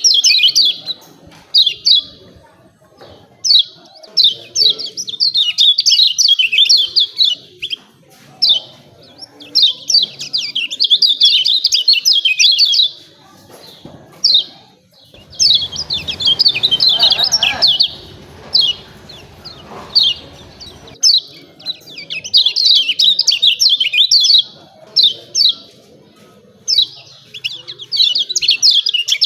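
Lemon-bellied white-eye (kecial kuning) giving rapid 'ciak ciak' chirping calls in high bursts of a second or two, repeated with short gaps and single notes in between. A low rumbling noise runs under the calls for several seconds about midway.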